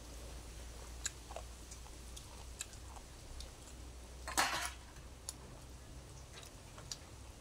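People eating fish curry with their fingers: chewing, with scattered small clicks and one louder short noisy burst about four and a half seconds in.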